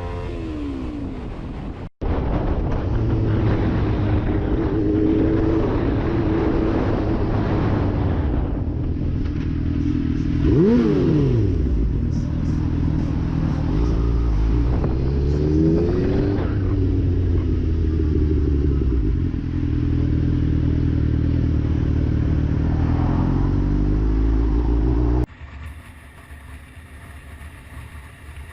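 Motorcycle engine running and revving, its pitch climbing and falling again and again, with a sharp rise and fall about ten seconds in. Near the end the engine sound cuts off abruptly and is replaced by quieter wind noise.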